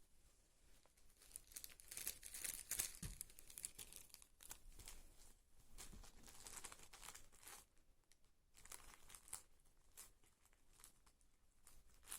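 Tempo paper tissues being crinkled and torn by playing cats: faint, irregular rustles and rips.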